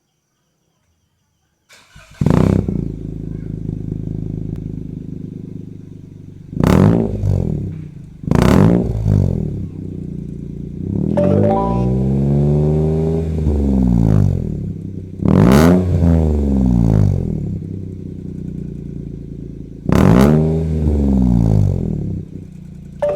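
Car exhaust fitted with a 5Zigen aftermarket muffler, with a deep bass note. The engine comes in about two seconds in, then idles between sharp throttle blips, about five of them, one a slower rev that rises and falls.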